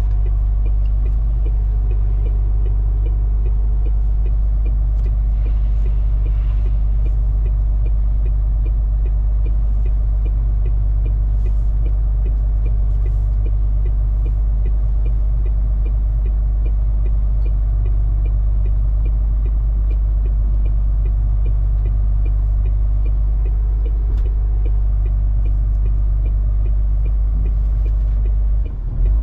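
MAN TGS 470 hp truck running at a steady pace, a constant low drone that breaks off about a second before the end.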